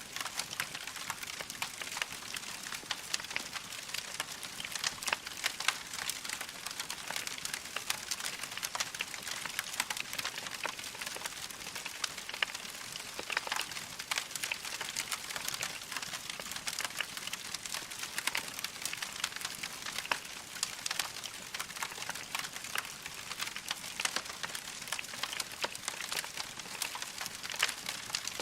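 Wood fire crackling in a fireplace: a steady hiss with many small, sharp pops and snaps from the burning logs, dense and irregular throughout.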